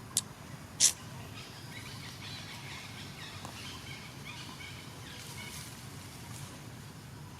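Outdoor ambience with faint chirping calls. Two brief, sharp high-pitched sounds come near the start, about half a second apart, the second the louder.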